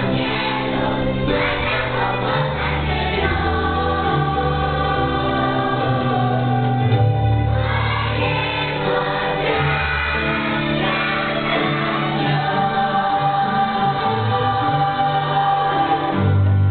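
Choral music: a choir singing sustained chords over a moving bass line.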